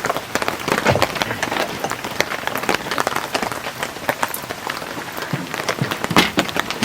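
Heavy rain falling on a tent, a dense, irregular patter of drops.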